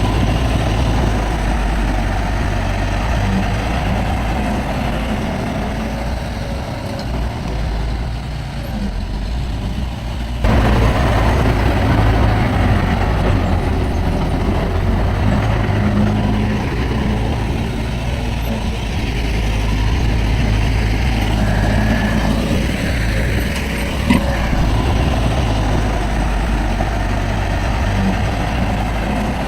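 Heavy diesel earthmoving machinery running steadily with a deep rumble, jumping suddenly louder about a third of the way in, with a single sharp knock near the end.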